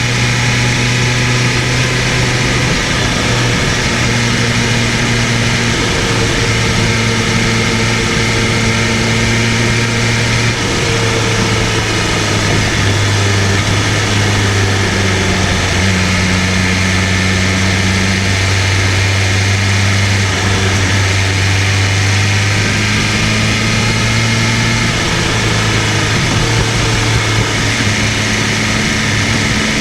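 BMW M1000RR's inline-four engine running at steady, moderate revs while riding, its pitch easing slightly lower partway through and rising back near the end, over a steady rush of wind and road noise.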